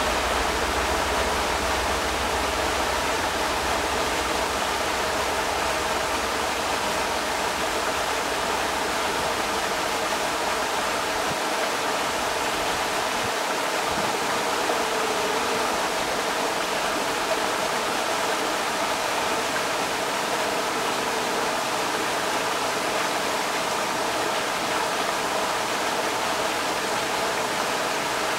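Creek water rushing steadily over rocks, a continuous even roar of running water.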